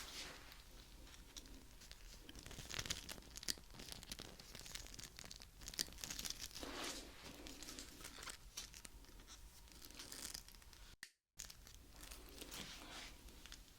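Nipper pliers (cutting pliers) being worked: quiet, irregular clicks and snips mixed with crinkly, crackling rustle, broken by a short gap of silence about eleven seconds in.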